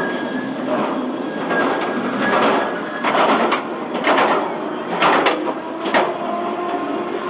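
Raptor, a B&M inverted roller coaster: its train running on the steel track, with wheel and track noise swelling in several bursts about a second apart in the second half.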